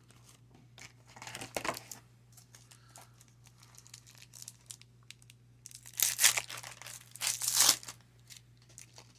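Wrapper of a 1996 Pinnacle Sportflix baseball card pack crinkling and being torn open, in bursts: a short stretch about a second in and two louder ones after about six seconds.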